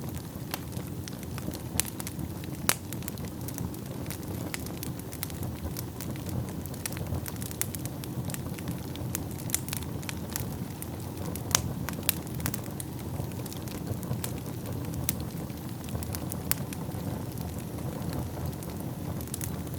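Wood fire burning in a fireplace: a steady low rumble of flames with irregular sharp crackles and pops of burning wood, a few louder snaps among them.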